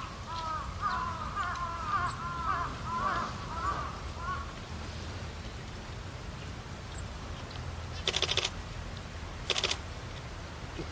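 Birds calling at a watering spot: a rapid string of overlapping arching chirps for the first four seconds or so, then two harsh crow caws, one longer and one shorter, near the end.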